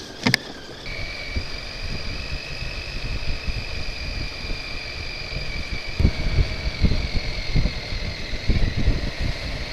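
Motorcycle engine running under way, heard as a steady high whine that steps up in pitch about a second in and then holds, with low wind rumble on the helmet microphone that grows stronger in the second half. A single sharp click comes just after the start.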